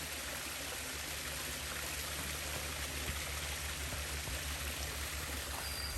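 Creek water flowing over small falls, a steady, even rush.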